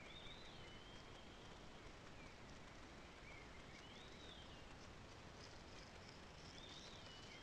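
Faint whistled bird song: a short phrase, a note sliding down and then one arching up and back down, heard three times about three seconds apart over a steady hiss.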